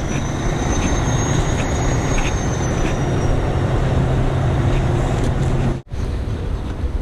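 Heavy rotator wrecker's diesel engine running at steady revs under lifting load, with a thin high whine over it. The sound cuts out for an instant near the end.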